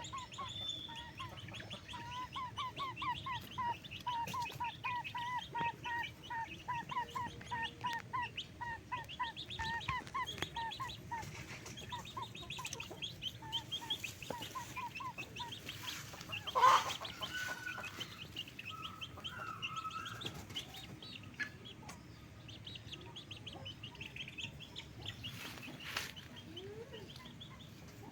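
Chickens clucking in rapid, repeated short calls, about three or four a second, easing off into softer scattered calls in the second half. A single sudden loud sound cuts in about 17 seconds in.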